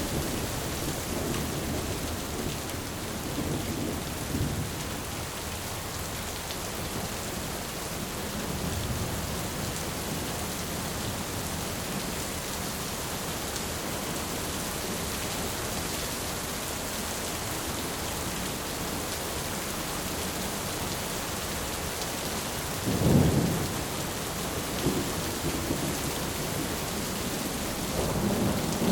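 Thunderstorm: steady rain hiss with low rolls of thunder, and a sharp, louder crack of thunder about three-quarters of the way through, with more thunder building near the end.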